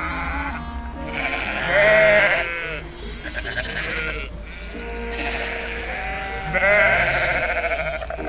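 Sheep bleating twice, long quavering calls, one about a second in and one past the middle, over background music of slow held notes.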